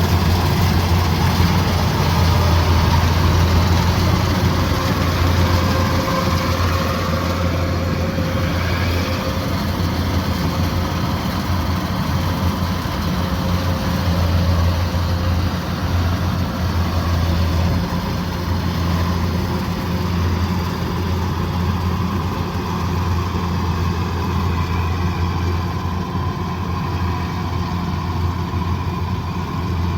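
Kubota DC108X combine harvester's diesel engine running steadily with a low, even drone.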